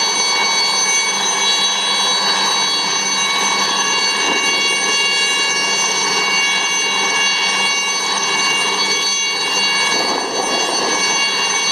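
Turbomeca Artouste III turboshaft of an IAR-316B Alouette III helicopter running steadily, a loud turbine whine made of several high steady tones over a rushing noise.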